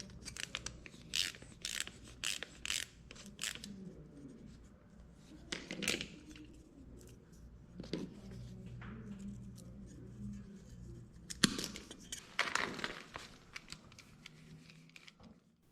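Wire cutters snipping and clicking on a furnace igniter's wire leads: a quick run of about six snips in the first few seconds, then scattered single snips and a longer rough scraping cluster near the end.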